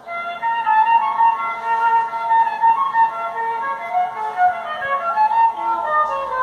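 A Brazilian funk track's flute melody intro starts suddenly and plays through a car audio system's amplifiers and horn tweeters, a run of held, clear notes with little bass under them.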